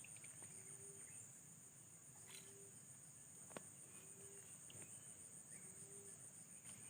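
Faint, steady high-pitched trill of crickets or similar insects, with a short low call repeating about every second and a half to two seconds and a single sharp click about halfway through.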